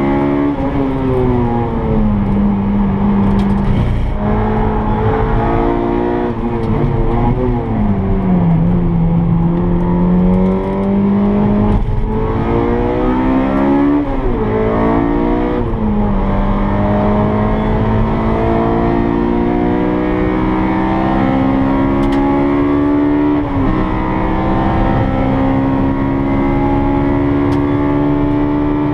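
Honda K20 2.0-litre inline-four in a DC2 Integra Type R, heard from inside the cabin on track. The engine note climbs through the revs and drops sharply at the gear changes, several times, over steady tyre and road noise.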